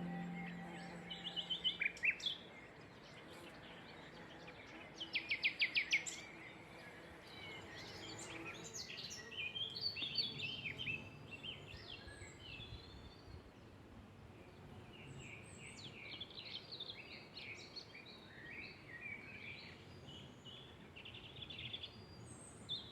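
Songbirds singing: scattered chirps and quick trills, with a fast run of repeated notes about five seconds in, over a soft steady hiss of outdoor ambience.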